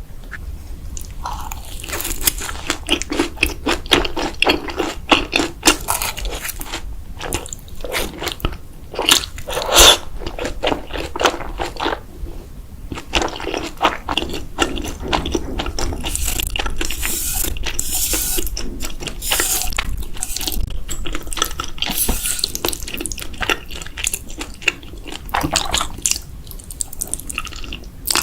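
Close-miked chewing and biting of food: quick, wet, crunchy mouth sounds, with a brief pause about halfway through.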